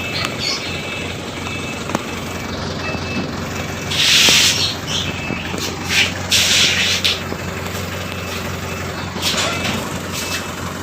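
A truck engine running steadily, with several short bursts of hissing, about four, six and a half and nine and a half seconds in.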